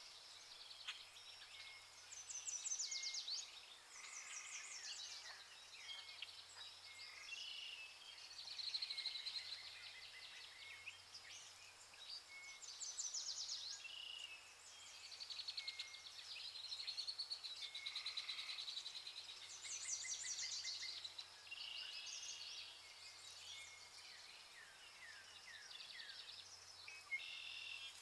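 A chorus of many forest birds calling at once: rapid trills that come back every few seconds, mixed with short chirps and whistled notes, over a faint low hum.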